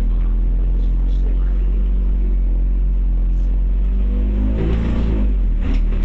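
Scania OmniCity bus's diesel engine heard from on board, running with a steady deep rumble; about four seconds in the engine note shifts and rises as the bus accelerates.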